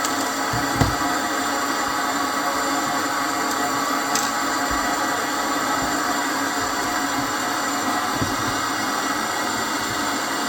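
A steady whirring noise like a small motor running, with a couple of faint low knocks.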